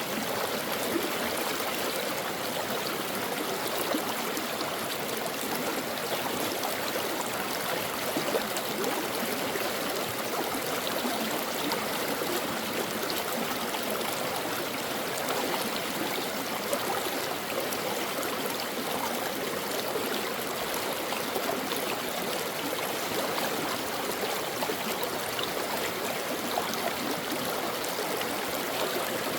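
Stream water flowing over rocks, a steady rushing and babbling with small splashes.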